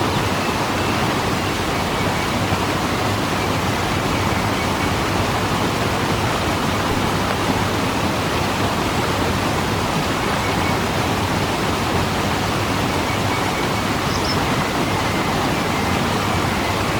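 Waterfall rushing steadily, a constant, even roar of falling water.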